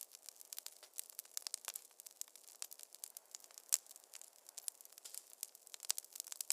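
Wood fire crackling in a fireplace: many irregular, sharp pops and snaps over a faint hiss.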